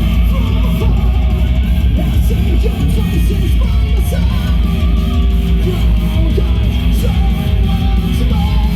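Heavy metal band playing live and loud: electric guitars strumming over bass and drums, with pitched lines bending up and down.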